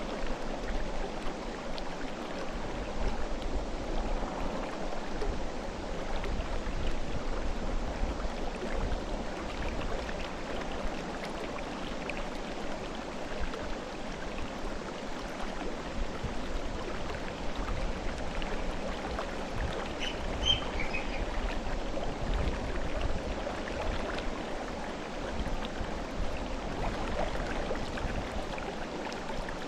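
Mountain river running over rocks: a steady rush of flowing water.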